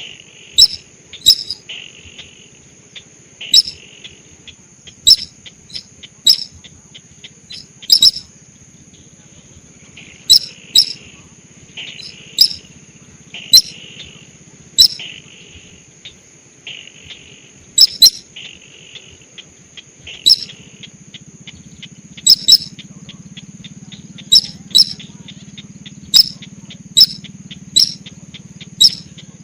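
Sintar sawah lure call: sharp, loud bird calls repeated about every second, with softer buzzy notes between them and a steady high whine underneath.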